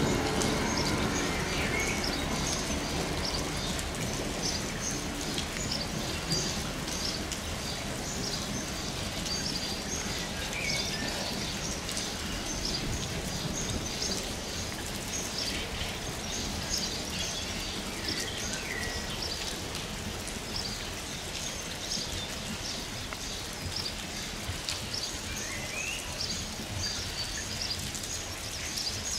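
Steady rain falling, with birds chirping throughout. The low sound of a receding freight train fades away over the first few seconds.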